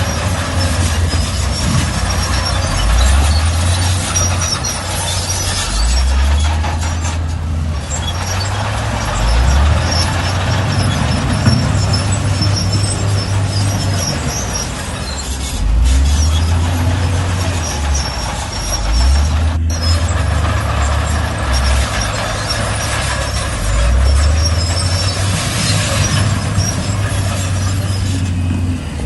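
Heavy diesel earthmoving machinery working: the engine repeatedly revs up under load and settles back, every few seconds, over a constant clattering noise.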